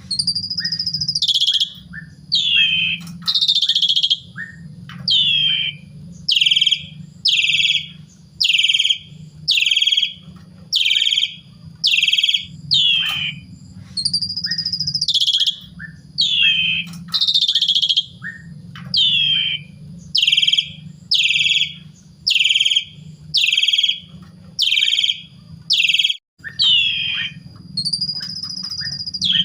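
Jalak suren (Javan pied starling) singing: loud calls repeated about once a second, most sliding down in pitch, with a few longer held notes mixed in, over a low steady hum.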